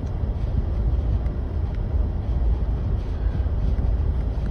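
Steady low rumble of a moving vehicle heard from inside its cabin: engine and tyres running slowly over a snow-covered road.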